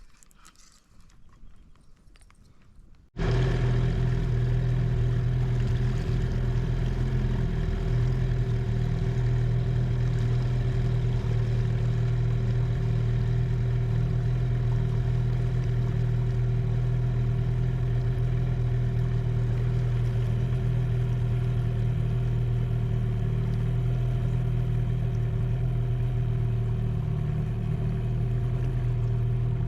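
Tarpon 9.9 outboard motor running at a steady speed, a constant low drone with a clear pitched hum, coming in abruptly about three seconds in after a few seconds of quiet.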